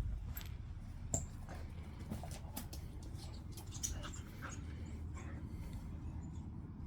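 Dogs at play, making scattered short dog noises and clicks, over a steady low rumble.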